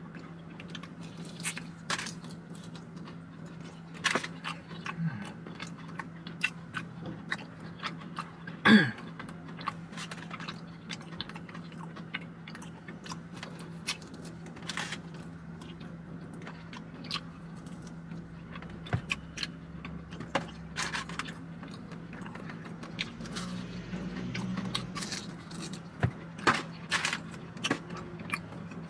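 A person chewing and biting into crispy fried chicken wings: scattered crunches and clicks over a steady low hum, with one sharper, louder sound about nine seconds in.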